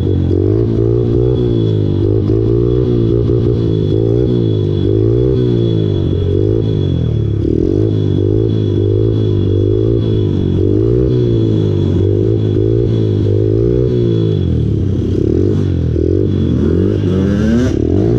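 Small pit bike engine revving up and down over and over as the throttle is worked to hold a long wheelie, with a faint steady high whine over it.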